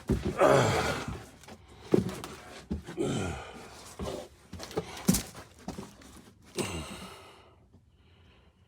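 A person crawling through a tight crawl space under a house: clothing and body scraping and bumping against the ground and framing, with grunts and heavy breaths. The noises come every second or so and die away about seven and a half seconds in.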